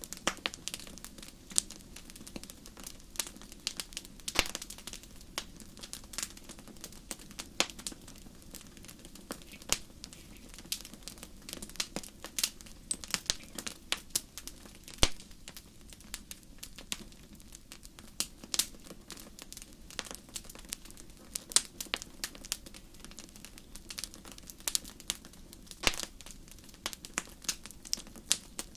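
Wood fire crackling in a fireplace: irregular sharp pops and snaps, some louder than others, over a low steady background.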